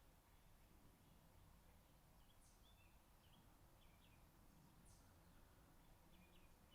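Near silence: room tone with a few faint bird chirps.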